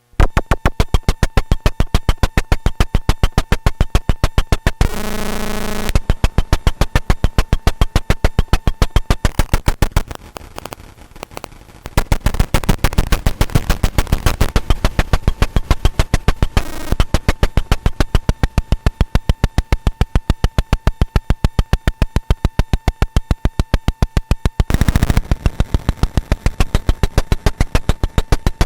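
Bastl Kastle Drum electronic noise percussion, a fast, even stream of clicky hits at about five a second over a steady high tone, run through a Korg NTS-3's looper, decimator and reverb. About five seconds in, and again near the end, the hits give way for about a second to a held buzzing tone. Around ten seconds in the pattern thins out and drops in level briefly.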